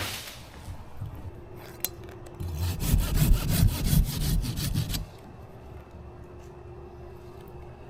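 Hand pruning saw cutting through a basswood limb in a run of quick strokes for about two and a half seconds, starting a couple of seconds in.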